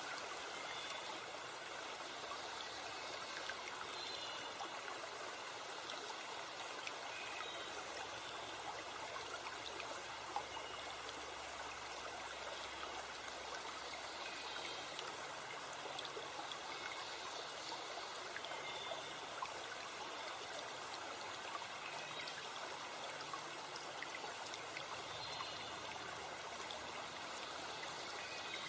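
Steady rushing of a forest stream flowing over rocks, with faint short bird calls scattered above it.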